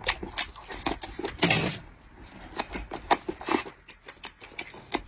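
Close-miked chewing of grilled sausage: wet mouth clicks and crackles, with two louder crunchy bites, about a second and a half in and again near the middle.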